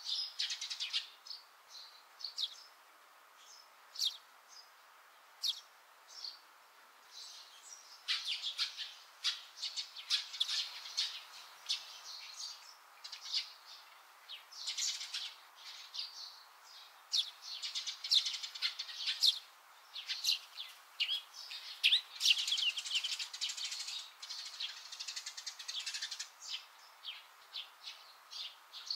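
Small birds chirping in many short, high calls, a few scattered notes for the first several seconds, then several birds calling together almost without pause.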